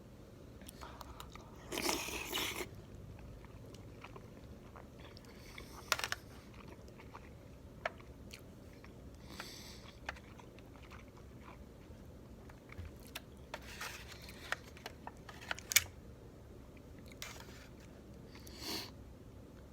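Close-miked eating of chicken momo dumplings: scattered wet clicks and smacks of biting and chewing, with a few short, louder noisy bursts, the biggest about two seconds in.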